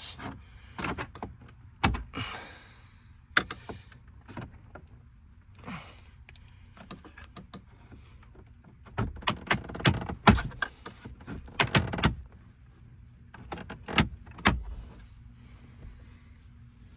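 Plastic dashboard trim on a 2018 Ram 2500 being worked loose with a plastic pry tool: scattered sharp clicks and snaps of trim clips and plastic knocking, with a few short scraping sounds. The clicks come thickest from about nine to twelve seconds in, with another burst around fourteen seconds.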